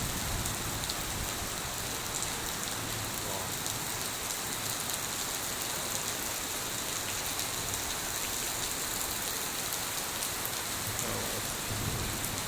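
Heavy pre-monsoon rain falling steadily: a dense, even wash of rain noise with the fine pattering of individual drops on surfaces.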